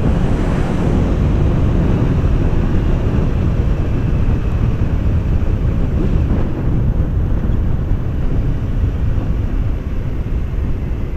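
Motorcycle on the move: wind rushing over the rider's microphone on top of the engine's steady running, loud and unbroken.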